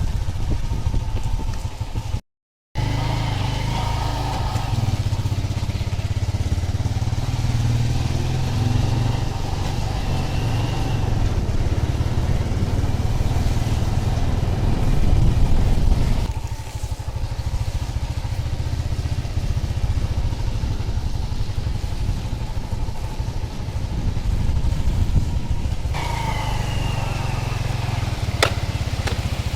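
Steady low rumble of a vehicle in motion, with wind buffeting the microphone. The sound cuts out completely for a split second about two seconds in.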